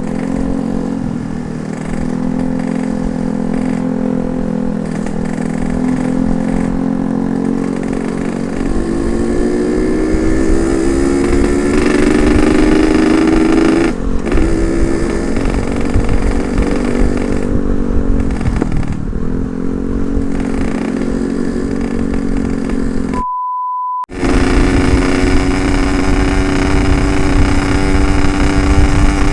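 Yamaha RX-King 135 single-cylinder two-stroke engine, stock with ported cylinder, running under load while being ridden. The revs climb, drop sharply at a gear change about halfway through, ease off, then build again. About three-quarters of the way in, the engine sound cuts out under a short beep tone.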